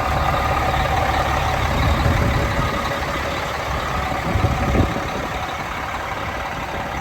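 Cat 3176 diesel engine of a Peterbilt 377 truck idling with a steady low rumble; the deep rumble falls away just before five seconds in, after a couple of brief louder knocks.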